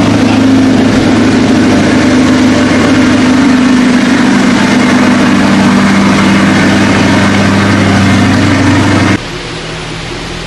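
A vehicle engine idling steadily and loudly, just after being started, then stopping abruptly about nine seconds in.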